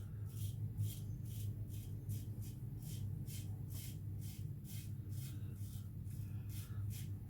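Gillette Black Beauty double-edge safety razor scraping through lathered stubble in quick short strokes, about two to three a second, over a steady low hum.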